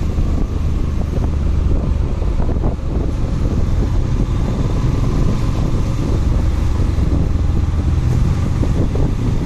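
Wind buffeting the microphone of a moving motorcycle, with engine and road noise steady underneath.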